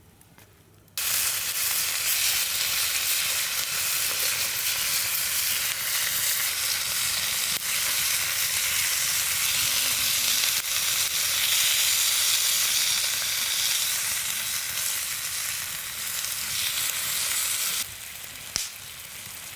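Food frying in a hot pan, a steady sizzle that starts suddenly about a second in, as if the food had just gone into the pan, and falls to a quieter sizzle near the end.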